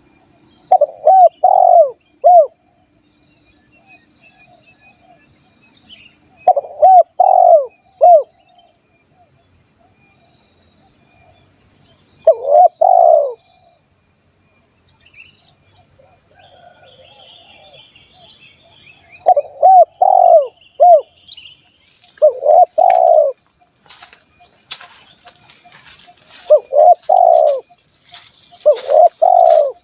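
Spotted dove (tekukur) cooing: short phrases of two to four low, mellow coos, repeated every few seconds, the call used to lure wild spotted doves. Behind it runs a faint, steady high-pitched whine with a light regular ticking, and scattered clicks come in during the second half.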